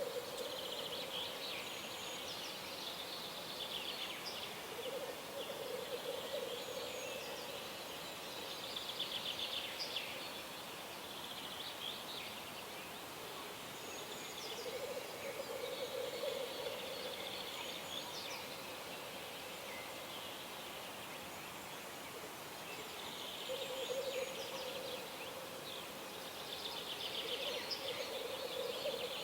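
Birds singing: high, fast trilling song phrases repeated every few seconds, with a lower, quavering call coming back now and then beneath them over a steady background hiss.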